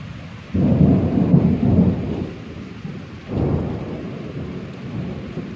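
Thunder rumbling twice during a rainstorm, over a steady hiss of rain. The first roll starts suddenly about half a second in and lasts over a second. The second starts about three seconds in and slowly fades.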